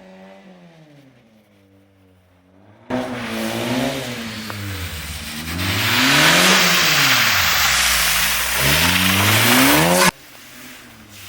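A car engine revving up and down over and over, its pitch rising and falling. About three seconds in it jumps to a much louder passage with a strong hiss over the engine, which cuts off suddenly near the end.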